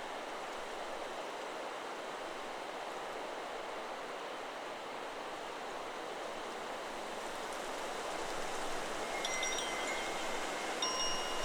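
Steady rush of wind through trees, growing stronger in the last few seconds. About nine seconds in, the Chakra Chimes 'Solar Plexus' wind chime starts to ring, a few clear high tones sounding and hanging on.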